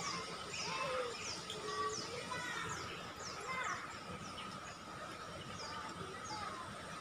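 Birds calling outdoors: a quick run of short, high, falling chirps repeated many times, with some lower curving calls in the first half, over a faint steady hum.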